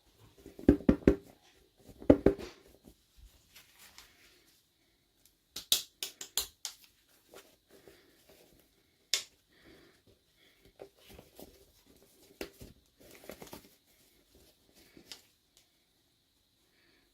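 Hands unboxing plastic toys: short bursts of plastic clicks, taps and crinkling, loudest in two clusters in the first couple of seconds, with a run of quick sharp clicks about six seconds in and a single sharp click about nine seconds in.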